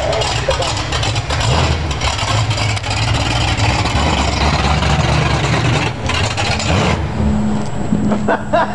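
Ford pickup truck's engine revved hard and held at high revs, loud and rough, then dropping back about seven seconds in to a steadier, lower running note.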